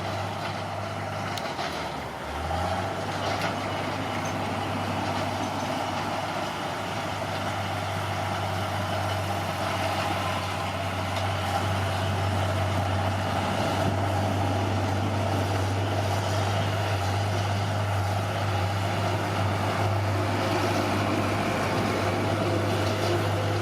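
Heavy earthmoving machine's engine running steadily at a constant pitch, which dips briefly about two seconds in.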